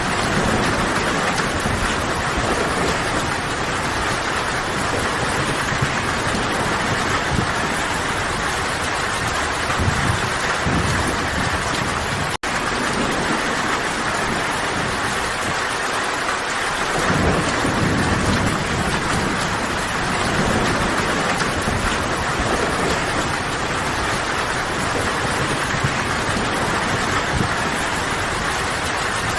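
Steady heavy rain, with low rumbles of distant thunder swelling and fading underneath. The sound cuts out for an instant about twelve seconds in.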